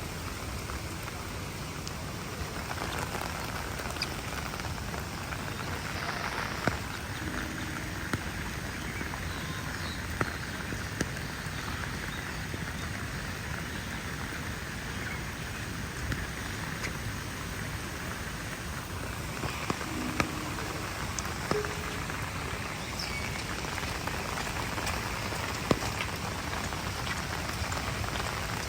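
Steady rain falling: an even hiss with scattered sharp taps of drops striking surfaces.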